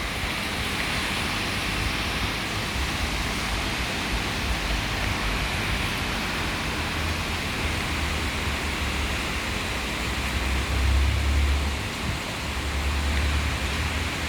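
Heavy downpour of rain, a steady dense hiss of water, with a deep low rumble underneath that swells strongest about eleven seconds in.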